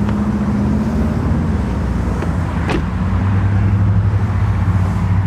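A vehicle engine running steadily with a low hum that drops in pitch and gets louder about three seconds in, with a single sharp click shortly before.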